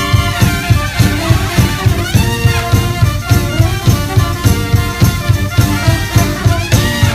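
Live brass band playing: trumpets, trombones and saxophone over a steady drum beat.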